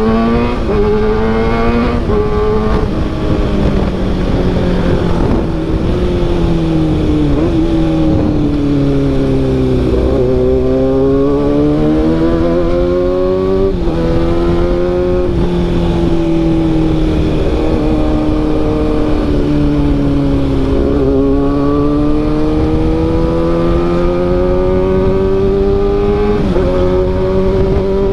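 Kawasaki ZX-6R inline-four engine through an SC-Project CRT carbon-sleeved exhaust, heard while riding. The engine note climbs and falls slowly with the throttle and jumps in pitch at a few gear changes.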